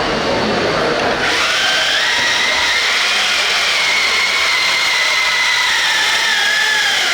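Electric drive of an RC pulling vehicle whining under load. The pitch climbs over the first couple of seconds, holds, and then sags near the end.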